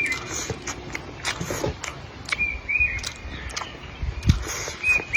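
Short, high chirping animal calls, each bending down in pitch, come three times: at the start, in the middle and at the end. Sharp clicks and light knocks from eating at the table run under them.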